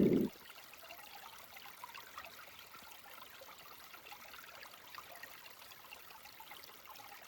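A mountain stream trickling and babbling faintly and steadily. A brief low rumble at the very start cuts off about a third of a second in.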